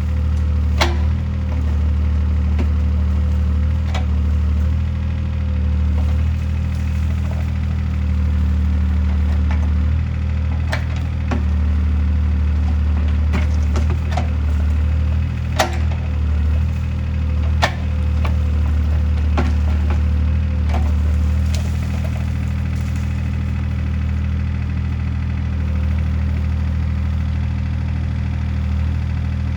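Mini excavator's diesel engine running steadily under work, with sharp cracks and snaps of wood splintering as trees and branches are broken, the loudest about halfway through.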